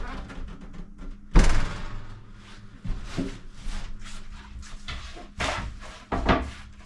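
Wooden cabinet parts being handled: a loud knock about a second and a half in, then several lighter knocks with scraping and sliding of wood between them.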